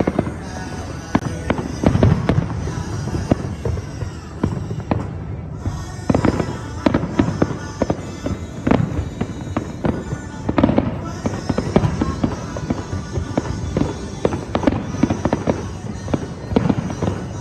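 Fireworks display: a rapid, irregular run of bangs and crackling bursts.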